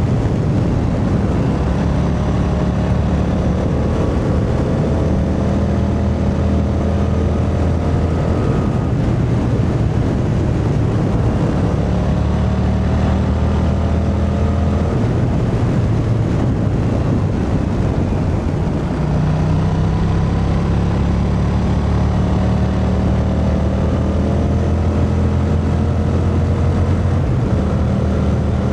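Yamaha MT-07's 689 cc parallel-twin engine pulling under load, its pitch climbing slowly through long stretches and easing off twice in between before pulling again.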